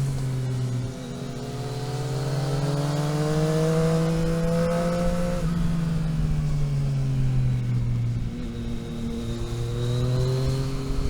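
Vehicle engine heard onboard while driving a mountain road. The pitch drops early on as at a gear change, climbs slowly under acceleration for about five seconds, then falls as the vehicle slows and settles.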